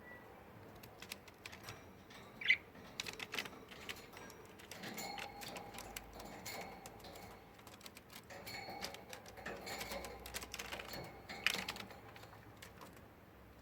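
Budgerigar preening: a run of small dry clicks and feather rustles as it works through its plumage with its beak, with a short chirp about two and a half seconds in, soft warbling in the middle, and another chirp near the end.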